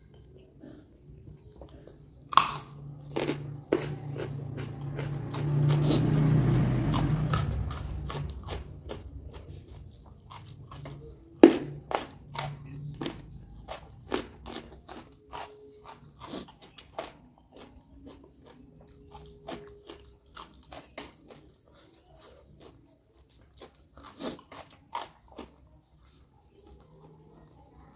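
Close-miked eating: crisp crunching bites and chewing of raw lalapan vegetables and young jengkol beans, with sharp crunches that thin out into softer chewing clicks. A low rumble swells and fades a few seconds in.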